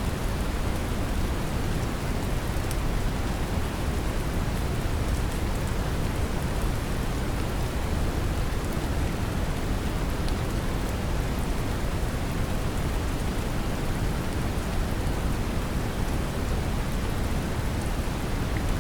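Brown noise, a steady deep rushing hiss heaviest in the bass, mixed with steady rain and now and then a faint patter of drops.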